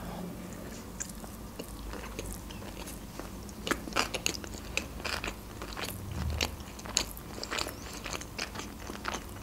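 Close-miked chewing of a mouthful of sushi roll: irregular wet mouth clicks, several a second.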